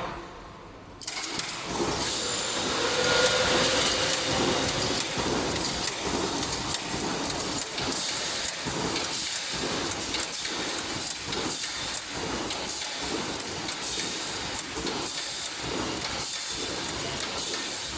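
Automatic wire mesh panel welding machine running, with continuous mechanical clatter and metallic noise and a regular pulsing beat as it cycles through its welds. The sound is quieter for the first second, then picks up.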